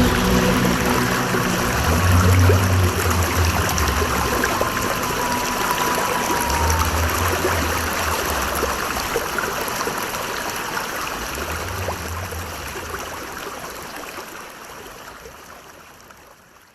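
Running stream water with three long, deep low notes under it, the whole sound slowly fading out to silence at the end.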